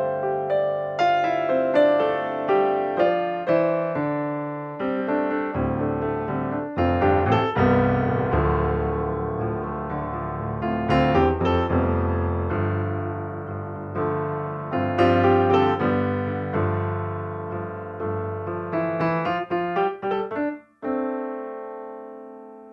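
Background solo piano music, a steady run of struck notes and chords ringing and decaying. Near the end it breaks off for a moment and a final held chord rings and slowly fades.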